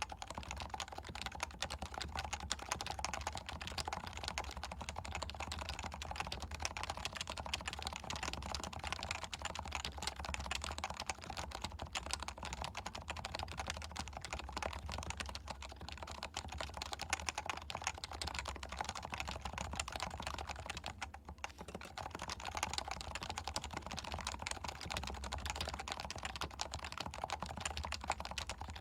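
Leopold FC660C keyboard with stock, non-silenced 45 g Topre switches being typed on fast and continuously, with a brief pause about 21 seconds in.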